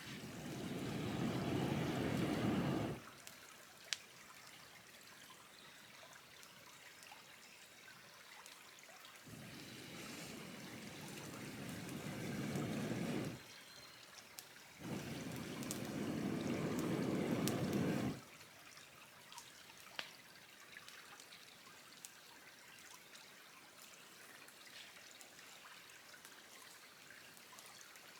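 Water poured in three spells of a few seconds each, each getting louder and then stopping sharply. A few faint clicks come between the pours.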